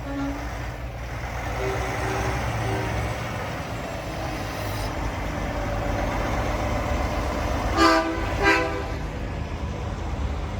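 Big-rig trucks running with a low, steady rumble, and a truck horn sounding two short, loud blasts near the end.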